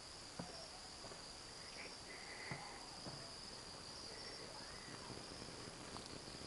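Steady high-pitched insect chirring, typical of crickets, with two sharp little clicks, one about half a second in and one a couple of seconds later.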